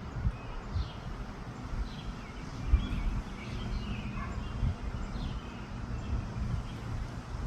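Wind buffeting the microphone in gusts, with small birds chirping on and off in the background.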